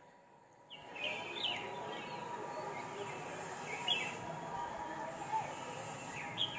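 Birds chirping against a steady outdoor background hiss: short chirps that fall in pitch, a few seconds apart, beginning about a second in after a quiet moment.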